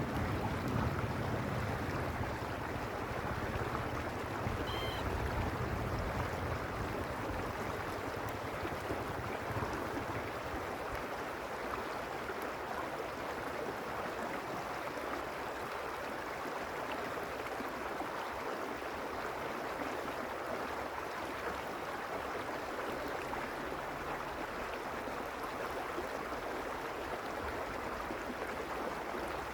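Stream water rushing steadily. A low rumble underneath fades out over the first third. There is a faint short high chirp about five seconds in.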